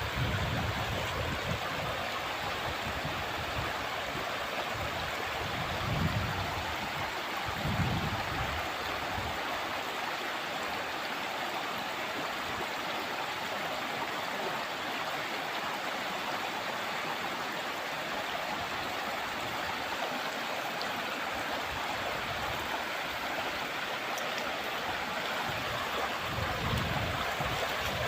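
River water flowing steadily, with a few brief low rumbles about six and eight seconds in and again near the end.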